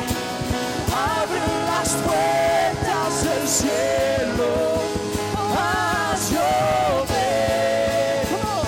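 Live worship band music with a singer's wordless, held and bending vocal line over sustained instruments and drums.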